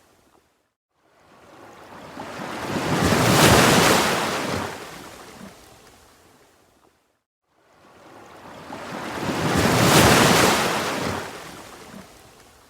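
Ocean waves washing in twice, each building over a couple of seconds to a full rush of surf and then fading away, with a brief lull between them.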